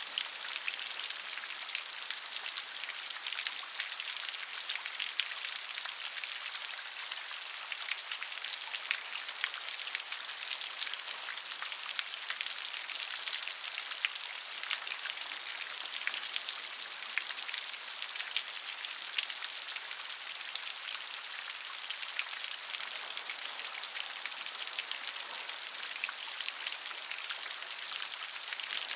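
Steady rain, with a dense patter of individual drops striking a surface.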